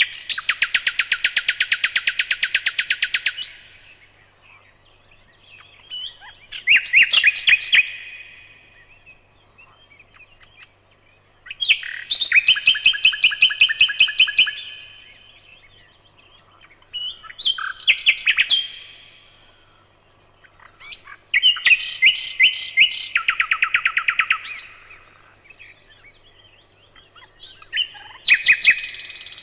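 Nightingale singing: loud phrases of fast repeated notes and trills, each lasting two to three seconds, with pauses of a few seconds between them, about six phrases in all.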